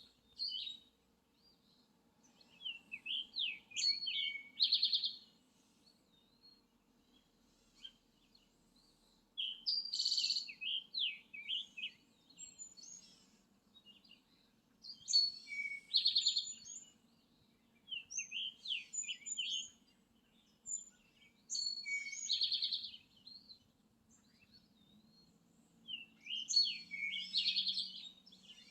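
A songbird singing the same song over and over, one every five or six seconds. Each song is a quick run of chirps and sweeping notes that ends in a rapid trill.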